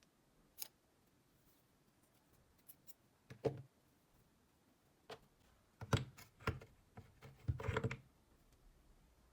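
Scattered clicks and knocks of small hard parts being handled at close range: a few single ticks, a louder knock midway, then a short rattle near the end.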